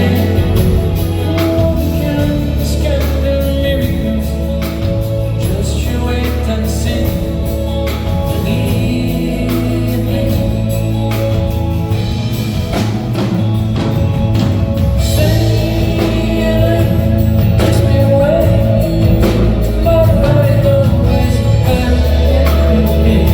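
Live soft-rock band playing with sung vocals: a singer over a full band, with steady bass notes underneath.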